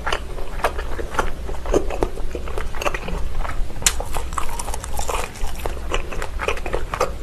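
Close-miked chewing of Vienna sausage: many short, irregular wet mouth clicks and smacks as the mouthful is chewed.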